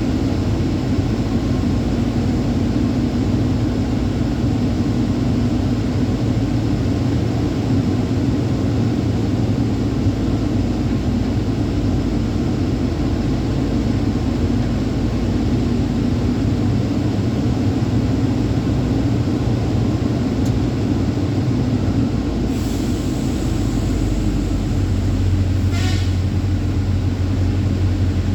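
Truck running on the road: a steady low engine and road drone. About three-quarters through, a short hiss comes in and fades, and the low rumble deepens near the end.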